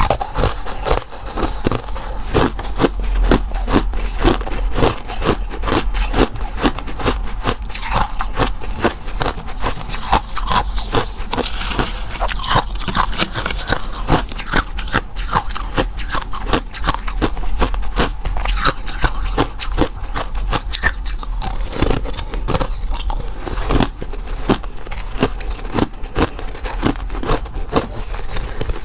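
Close-up eating sounds: someone biting and crunching, with a steady run of crackling clicks and scraping, several a second.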